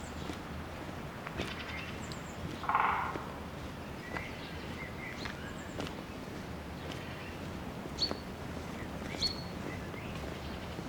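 Footsteps on a forest trail over a steady low background, with small birds chirping now and then. One louder, short call comes about three seconds in, and two sharper high chirps come near the end.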